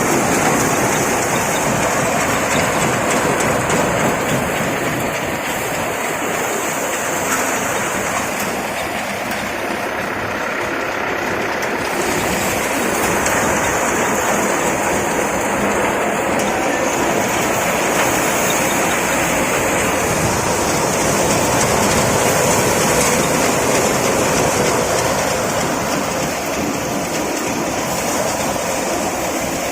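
Engine running steadily, a loud, even mechanical noise with no change in speed.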